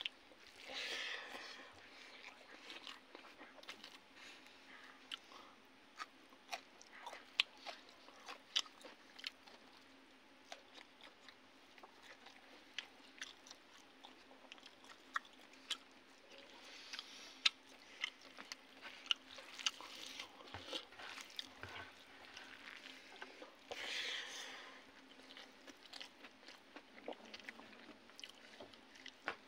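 A person chewing a mouthful of rice and fried fish close to the microphone, with many short sharp crunches and wet smacking clicks scattered throughout. Three short, louder rustling noises stand out: about a second in, around the middle and later on.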